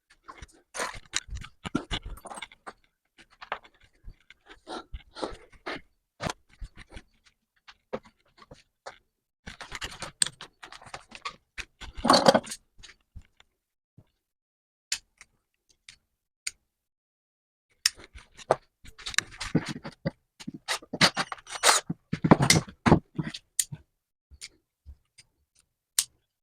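Tools and metal vise parts being handled: irregular clicks, taps and short scrapes, with louder clattering clusters about ten to thirteen seconds in and again from about eighteen to twenty-three seconds.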